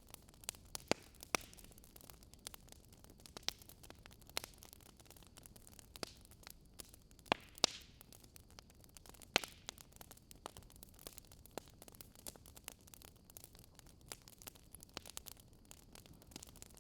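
Wood fire crackling softly: irregular sharp pops and snaps, a few louder than the rest, over a quiet steady hiss.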